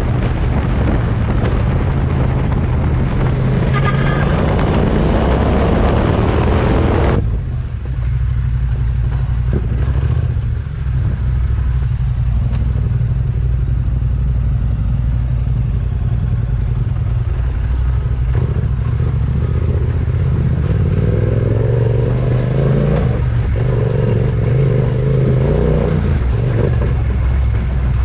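Yamaha Ténéré 700 parallel-twin motorcycle engine running steadily under way, with heavy wind rush over the microphone that cuts off suddenly about seven seconds in.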